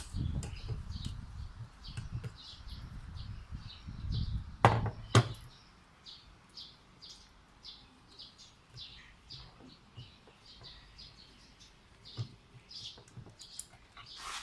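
Handling knocks and two sharp clicks about five seconds in, from hands working on an electric airsoft gun's gearbox parts, with small birds chirping repeatedly in the background.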